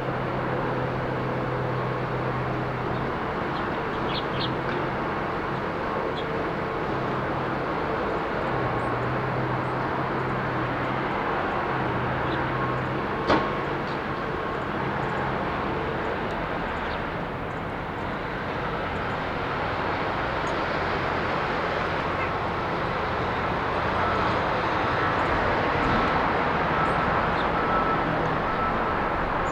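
Steady rush of road traffic with a low engine hum that comes and goes, a few faint high bird chirps, and one sharp click a little before halfway.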